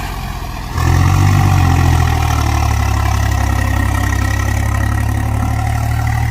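Heavy farm-machine diesel engine running steadily close by, coming in abruptly and loudly about a second in.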